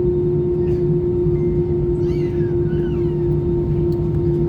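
Steady engine and airflow noise inside an Airbus A320's passenger cabin: a constant low rumble with a steady hum. A faint, brief high wavering sound rises over it about halfway through.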